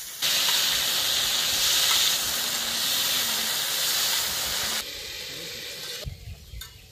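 Chopped yardlong beans sizzling hard in hot oil in a wide, shallow metal pan as they are stirred with a spatula. The sizzle cuts in abruptly at the start, drops sharply about five seconds in and dies away near the end.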